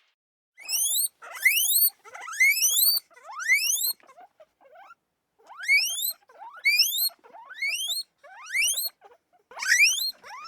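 A small animal's high squeaking calls, repeated about once a second, each one a sharp upward-sliding squeak, some in quick doubles.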